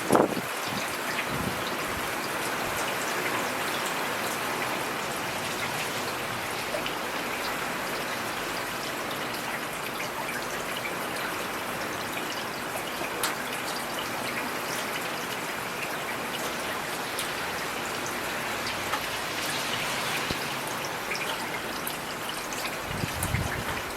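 Heavy rain falling steadily, with scattered sharp drop impacts and a brief low rumble near the end.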